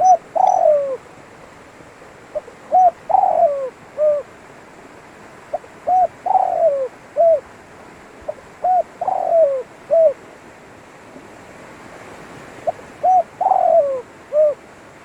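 Spotted dove (tekukur) cooing its song phrase five times, about every three seconds. Each phrase is a few short coos, a longer falling coo, and a short coo to close, over a steady faint hiss.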